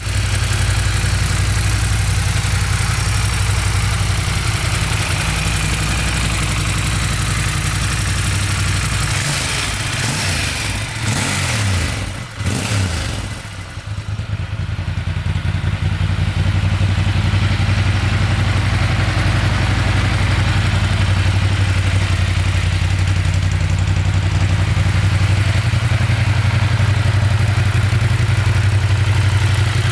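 Ducati Monster 1200 S's L-twin engine idling steadily, revved up and down a few times about ten to thirteen seconds in, then settling back to a steady idle.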